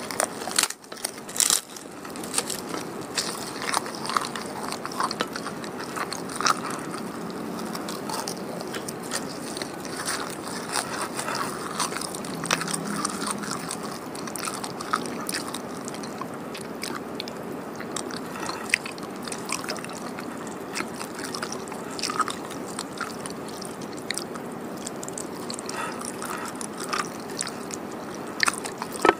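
Close-miked chewing of pecel sayur (vegetables and tofu in peanut sauce), with many small mouth clicks throughout and a few louder sharp bites about a second in.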